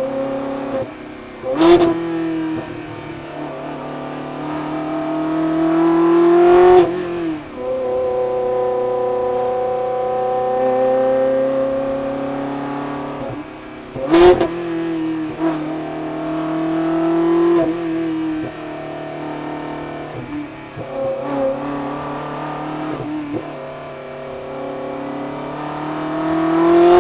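Ferrari 360 Modena's V8 running loud through a Capristo exhaust, its note climbing over several seconds and then falling away abruptly, again and again. Sharp cracks sound at several of the breaks.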